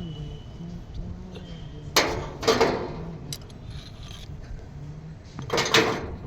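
Metal tools and engine parts clanking and clinking during work on an excavator engine: a few sharp knocks about two seconds in and again near the end, over a low steady background hum.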